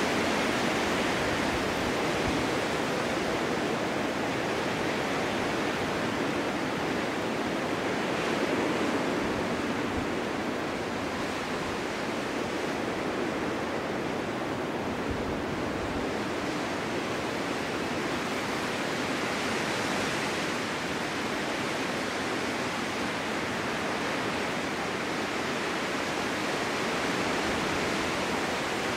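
Snowstorm wind blowing steadily, swelling and easing a little now and then.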